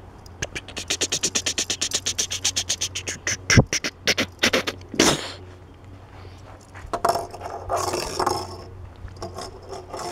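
Hot Wheels Madd Propz die-cast toy airplane pushed along a table: a rapid clicking of its small wheels and spinning parts, about eight clicks a second, that slows and thins out. Then two sharp knocks of the metal toy against the surface, and later a short scraping.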